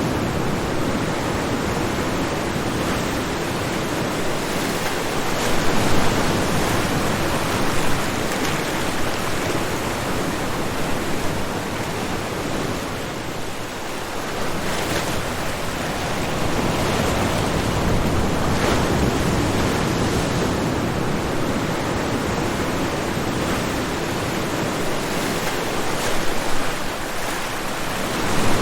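Ocean waves washing onto a shoreline: a steady dense rush of surf that swells and eases, dipping about halfway through and rising again, with a few brief louder splashes.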